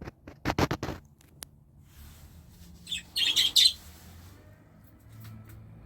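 Budgerigars chirping, loudest in a short burst of high chirps about three seconds in, after a quick run of sharp taps near the start.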